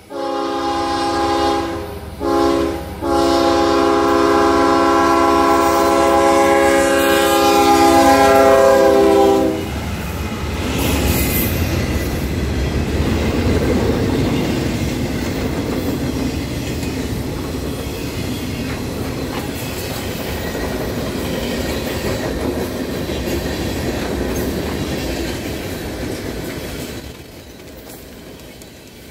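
Freight locomotive air horn sounding a multi-note chord at a grade crossing: a long blast, a short one, then a long blast held about six seconds. Then the train rolls past with a steady rumble and clickety-clack of wheels on rail joints, dropping off near the end.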